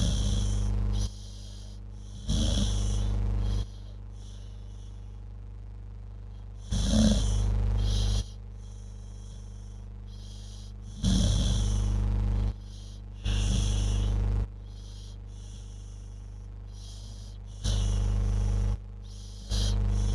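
Dog snoring in its sleep: loud rasping snores about a second long each, coming every few seconds with quieter breathing between them.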